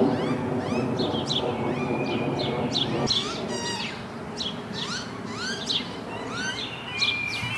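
Birds calling: a stream of short, quick chirps and whistles with a few brief held whistled notes, over a low steady hum in the first three seconds.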